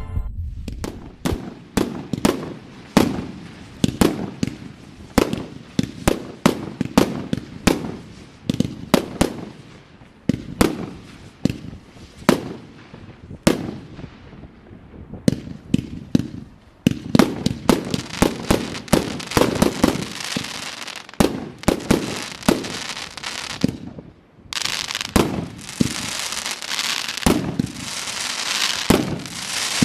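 Fireworks display: a fast run of aerial shell bursts, several sharp bangs a second. From about three-quarters of the way in, a dense, continuous crackle fills in between the bangs.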